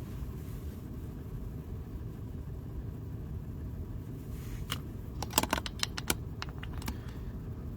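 A steady low rumble with a cluster of sharp clicks and taps between about five and seven seconds in.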